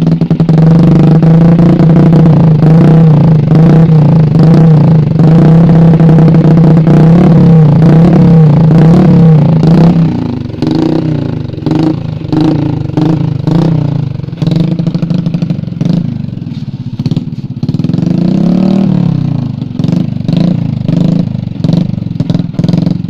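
Honda Supra motorcycle with a CLD Monster aftermarket exhaust, held at steady high revs for about ten seconds, then dropping and being blipped up and down repeatedly through the rest.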